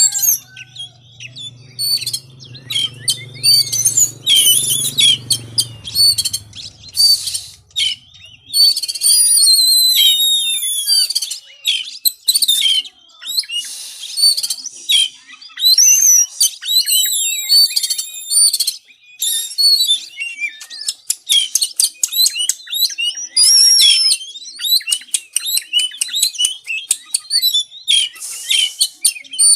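Oriental magpie-robin (kacer) singing in a fired-up, aggressive way: rapid, varied bursts of high whistles, swooping notes, rattling trills and harsh chatter with short pauses between phrases. A faint low hum sits beneath the first eight seconds or so.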